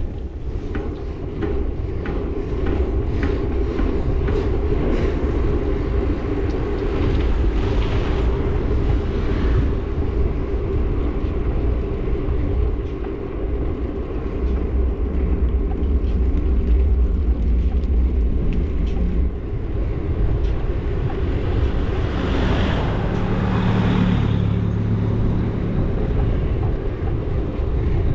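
Steady low rumble of riding along a road with traffic. About 22 seconds in, a vehicle engine grows louder and passes close by.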